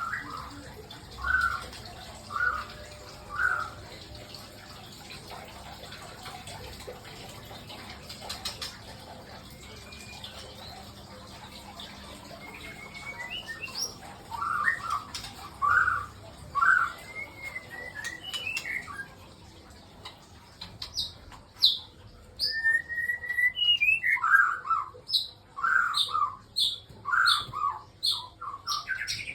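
White-rumped shamas calling in short repeated chirping notes, sparse at first and coming thick and fast in the second half, mixed with higher rising whistled notes. A few sharp clicks sound in between.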